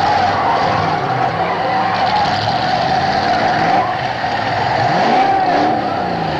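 Demolition derby cars' engines running and revving, their pitch rising and falling, with a steady high squeal running underneath as the cars spin and shove in the dirt.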